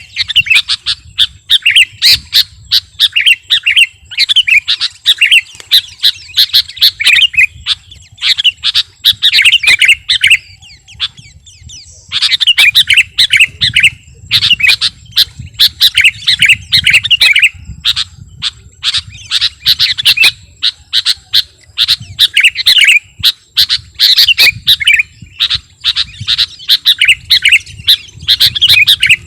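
Kutilang (sooty-headed bulbul) singing loudly and almost without a break in quick, repeated chattering phrases, pausing once for about a second and a half near the middle.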